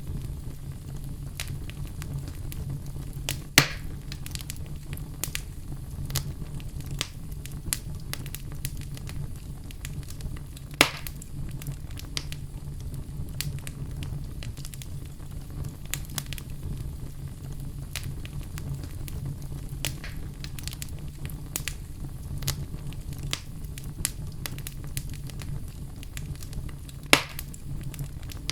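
Wood fire in a fireplace crackling steadily over a low rumble, with frequent small crackles and three louder pops spread through.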